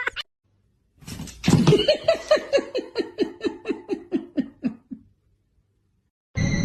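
A person laughing in a run of quick pitched 'ha' pulses, about four a second, that fall in pitch and fade out over about four seconds. Near the end, after a short silence, a different sound with a steady hiss and tones cuts in.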